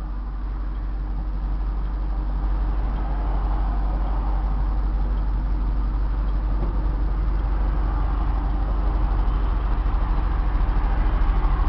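Inside the cab of a 1994 Ford F600 box truck under way: its 7.0-litre V8 engine running with road rumble, getting steadily louder as the truck gathers speed.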